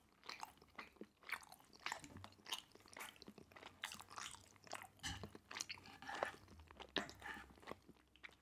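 A person chewing a mouthful of tteokbokki, chewy Korean rice cakes, close-miked: soft, irregular wet clicks and smacks, a few a second.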